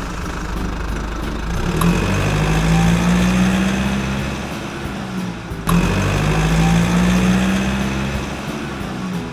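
Vehicle engine running and revving with a steady note that rises slightly, then fades. It starts over abruptly a little past halfway, as if the same engine recording is repeated.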